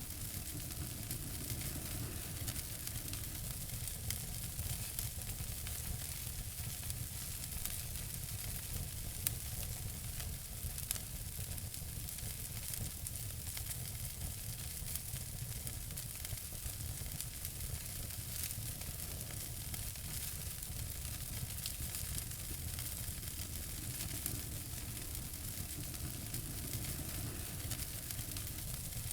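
Wood fire crackling in a fireplace: a steady hiss dotted with many small pops and snaps, over a low rumble.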